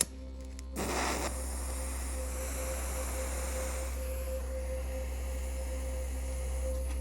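A machine switched on with a click and running steadily: a low hum with a steady whine over it, and a burst of hiss about a second in that settles into a constant rush.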